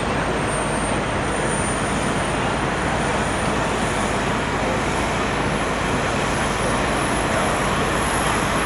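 Airbus A330-300 airliner's jet engines running: a steady, dense roar with a thin high whine that climbs slowly in pitch.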